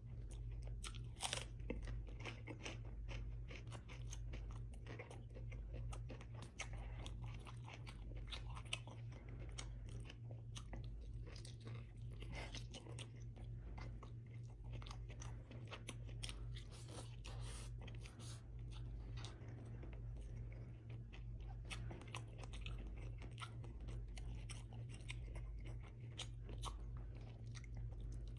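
Close-up chewing and crunching of mouthfuls of braised beef rib, rice and romaine lettuce eaten by hand, with many small wet mouth clicks and crisp bites.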